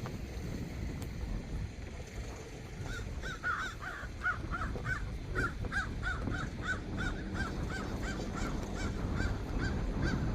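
A bird calling in a rapid series of short, rising-and-falling notes, about three a second, starting about three seconds in, over a steady low rumbling background.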